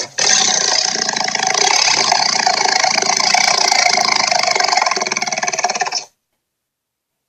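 Cartoon sea monster sound effect: a long, rattling, engine-like growl with a brief break just after it starts, cut off abruptly after about six seconds.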